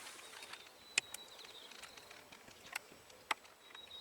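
Three short, sharp clicks, spaced irregularly, over a quiet outdoor background with a faint, thin, high steady tone.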